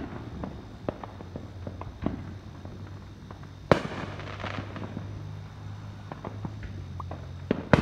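Consumer fireworks going off at a distance: scattered pops and bangs, with one loud bang about halfway through followed by a second of crackling, and another sharp bang near the end. A low steady hum runs underneath.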